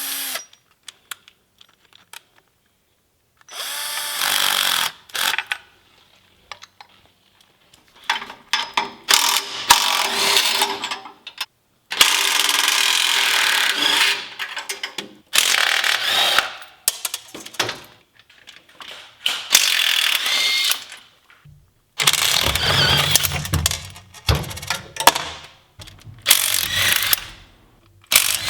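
Power wrench running in repeated bursts of one to three seconds with short pauses between, as bolts are run out during an engine removal. A low rumble sits under one burst near the end.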